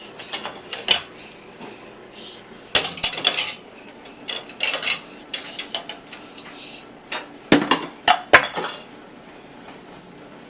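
Dishes and cutlery clattering and clinking in an open dishwasher's racks as small children play with them, in several short bursts a few seconds apart, the sharpest knocks near the end.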